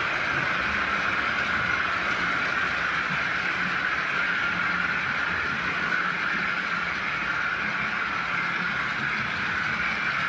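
OO gauge model train running on the layout: a steady, even running noise from its motor and wheels on the track.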